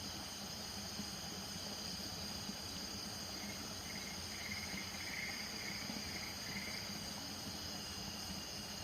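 Night chorus of crickets trilling steadily, with a frog adding a short series of pulsed calls, about two a second, from about three and a half to seven seconds in.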